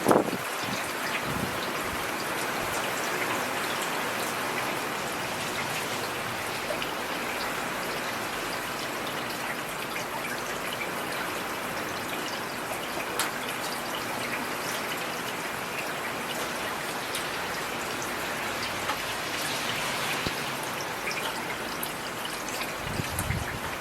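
Heavy rain falling steadily: an even hiss of rain with scattered sharper drop ticks.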